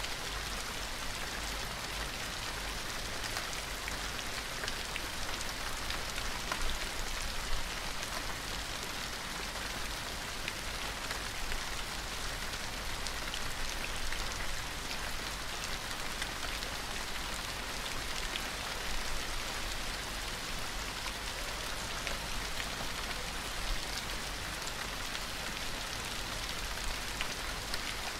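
Steady rain falling, with many small drops pattering and ticking on a surface throughout.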